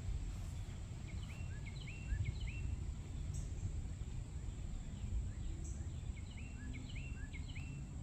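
Outdoor ambience: a songbird sings a short run of chirps twice, about a second in and again around six seconds. Under it run a low rumble and a steady high-pitched whine.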